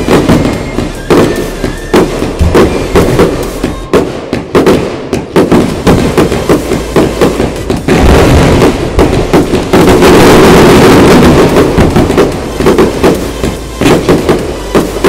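Fireworks finale: a rapid series of firework bangs that merges into a dense, unbroken barrage about eight seconds in, then eases back to separate bangs near the end.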